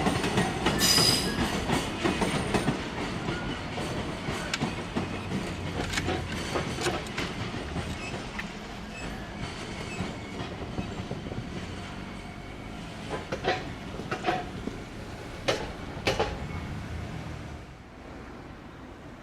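Train running past on the rails, wheels clattering, the sound fading as it moves away. A few sharp clanks come near the end.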